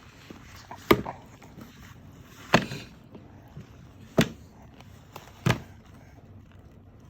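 Four sharp knocks on a hard surface, spaced about one and a half seconds apart.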